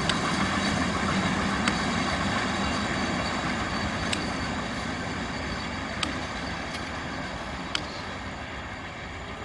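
Rumble of a diesel-hauled express train's coaches running past on the rails, slowly fading as the train draws away, with a sharp click about every two seconds.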